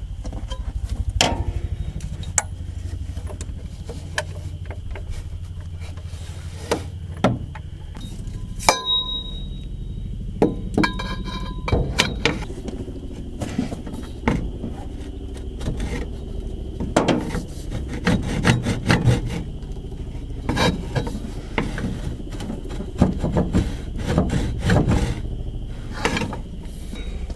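Hand tools at work: irregular clicks, knocks and scraping, thickest in the second half, over a steady low hum.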